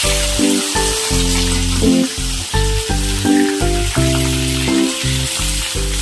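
Food frying in hot oil in a pan, a steady sizzle, under background music with a steady beat.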